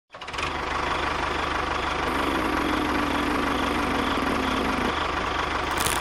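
Engine idling steadily, a low even pulse with a faint hum over it.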